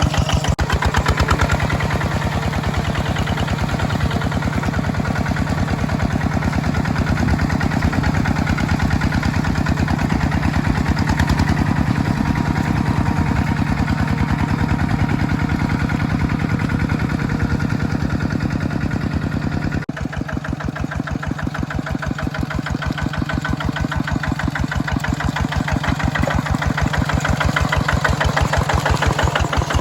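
Mini tractor engine running steadily with a fast, even chug while plowing. About two-thirds of the way in the sound drops a little in level and changes tone.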